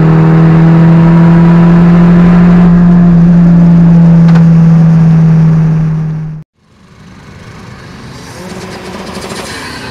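Fiat JTD diesel engine droning loudly at high, steady revs, heard inside the car's cabin; it cuts off abruptly about two-thirds of the way through. It is followed by a quieter, rising engine sound with a rushing hiss as a Fiat Punto 1.9 JTD accelerates away.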